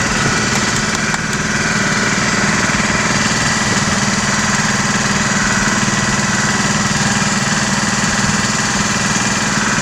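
Motorboat engine running steadily and loudly at an even, unchanging pace.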